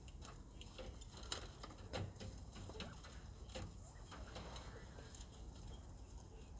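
Northern bobwhite quail giving faint, soft short calls, among scattered small clicks and ticks.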